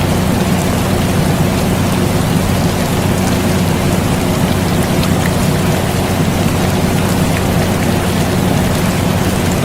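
Air conditioner running with a steady low hum, layered over steady rain, with a few light drop ticks.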